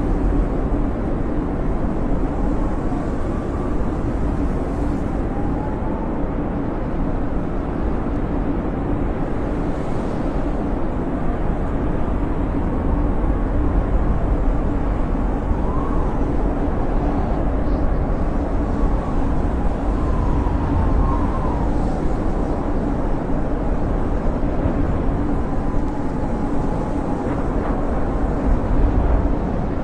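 Snowstorm wind howling: a steady low rush of gusting wind with faint whistling tones that rise and fall every few seconds.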